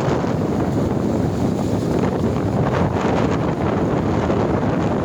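Strong storm wind buffeting the microphone in a steady, heavy rumble, with breaking lake waves washing underneath.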